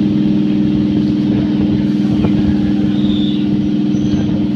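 Steady low drone of a vehicle's motor at an unchanging pitch, over a bed of running noise.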